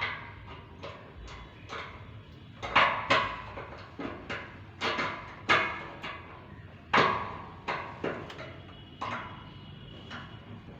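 Irregular metal knocks and clanks, roughly one every half second to second and a half, each dying away quickly, from hand tools working on a diesel fuel tank as it is taken apart.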